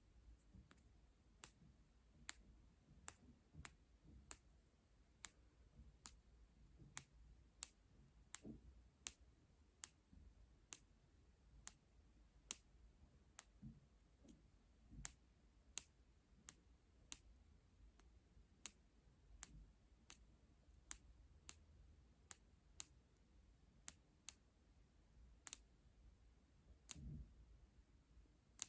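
A quiet, steady series of small sharp clicks, a little more than one a second, with a soft low thud near the end.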